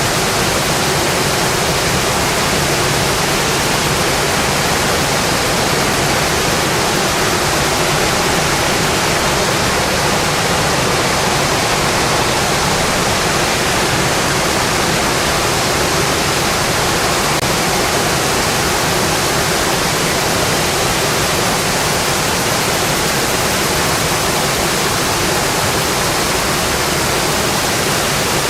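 Heavy rain drumming steadily on a metal roof, a dense, even hiss with no let-up.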